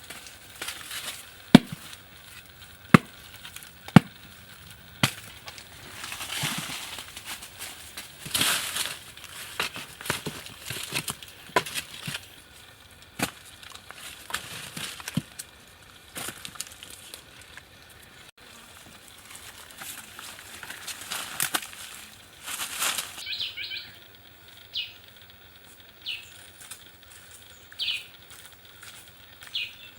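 Sharp knocks at irregular intervals with rustling in between, typical of hand work on wood; short high chirps sound a few times near the end.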